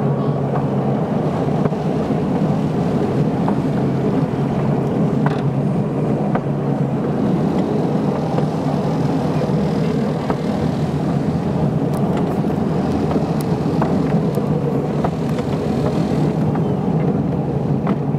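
Heritage railway train heard from an open passenger wagon: a steady engine drone and the rumble of wheels running on the rails, with scattered sharp clicks from the wheels and track.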